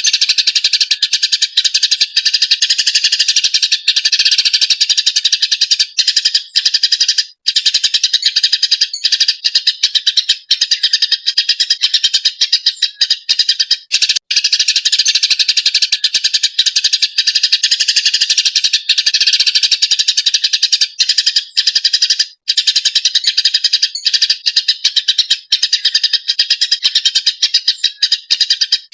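Eurasian tree sparrow chirping in a fast, agitated, almost unbroken chatter, with a few brief pauses.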